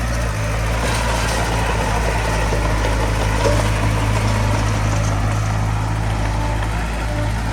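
Heavy diesel engine of earthmoving machinery running steadily, with a low, even hum.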